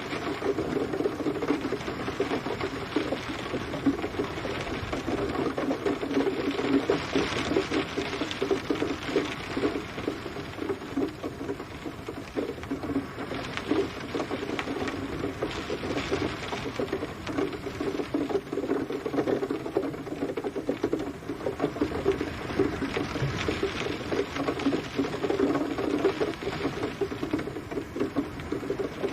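Steady rain pattering on a surface: a dense, even crackle of countless drops, with no thunder.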